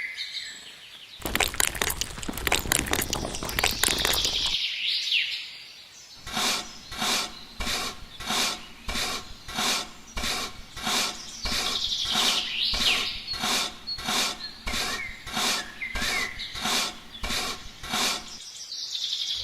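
Birds chirping in short, looping calls. Behind them runs a regular mechanical-sounding pulse, about two beats a second, from about six seconds in until near the end. Before that there is a stretch of rapid clicking.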